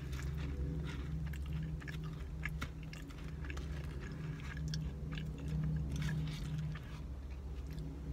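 Close-up mouth sounds of a person chewing a bite of caramel pecan cinnamon roll, soft wet clicks and small crunches, over a steady low hum.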